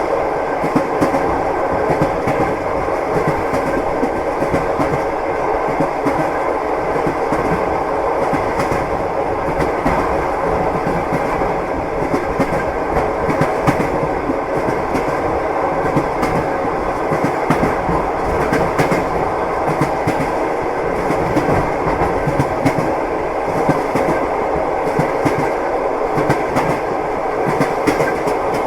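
Passenger train wheels clacking over the rail joints, with the steady rumble of the carriage in motion, heard from inside the carriage.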